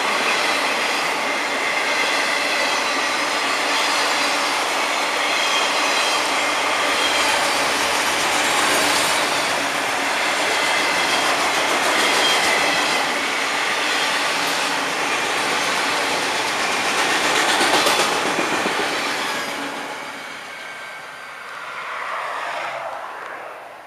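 Autorack freight cars rolling past, a loud steady rumble of steel wheels on rail with steady high squealing tones. The sound fades about twenty seconds in as the end of the train goes by, swells briefly, then drops away.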